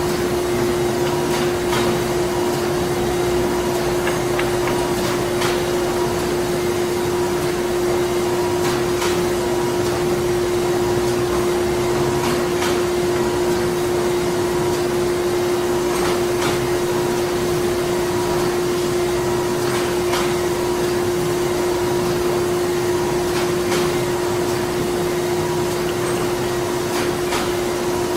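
Printing-factory machinery running steadily: a continuous mechanical drone with one strong, even hum, and irregular clicks and knocks from the machines scattered throughout.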